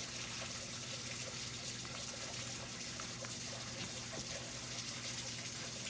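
Steady hiss with a low, even hum underneath and a few faint ticks.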